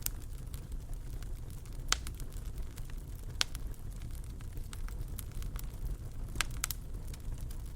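Wood fire in a fireplace crackling: a steady low rumble of flames with scattered sharp pops. The clearest pops come about two seconds in and three and a half seconds in, with a quick pair about a second before the end.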